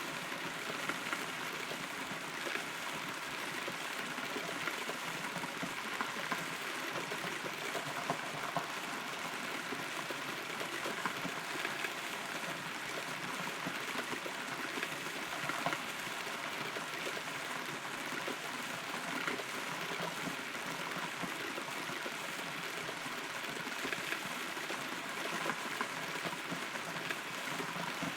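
Steady rain falling, its drops pattering on wood and leaves, heard from inside a hollow rotten tree.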